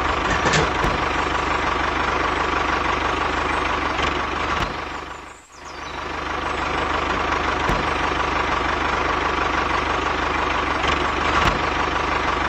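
Small engine of a DIY mini tractor running steadily with a rapid low pulsing. It fades out briefly about halfway through and comes back.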